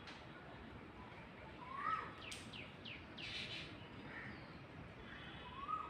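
Black drongo calling: a short rising-and-falling note about two seconds in, then a quick run of sweeping notes and a harsh rasping note. The short rising-and-falling note comes again near the end, over steady outdoor background noise.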